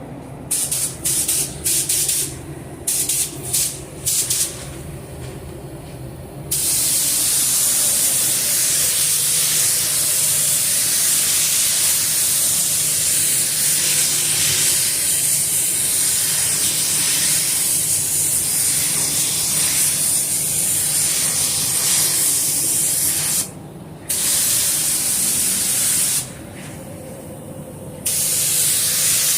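Compressed-air paint spray gun hissing as clear coat is sprayed onto a car body: several short trigger pulls in the first few seconds, then a long continuous pass, with two brief pauses near the end.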